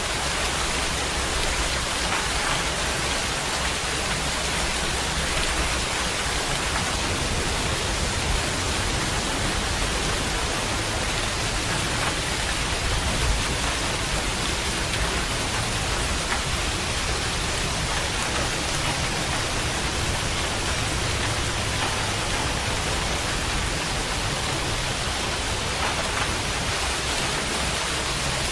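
Steady heavy rain falling in a dense, even hiss with scattered drop taps and a low rumble underneath.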